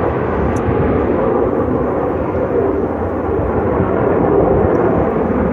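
Jet engine rumble from Thunderbirds F-16 fighters flying over, a steady noise that swells slightly about four seconds in.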